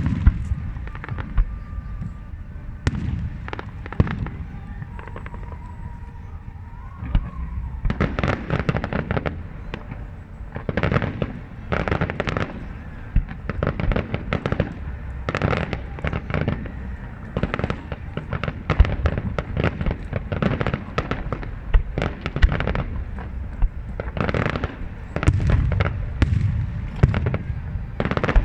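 Aerial fireworks display, shells bursting in rapid, overlapping bangs with a continuous low rumble, a few scattered bangs at first, then a dense barrage from about a third of the way in.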